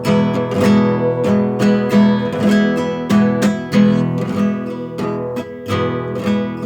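Acoustic guitar strummed in a steady rhythm, each stroke ringing into the next: an instrumental passage of the song with no voice.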